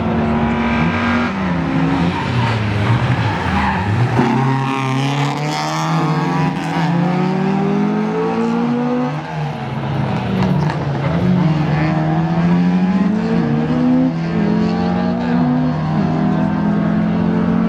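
Rally car engine running hard, its pitch climbing through the revs and dropping sharply at each gear change, then a quick run of short rises and falls late on, as on shifts and throttle blips.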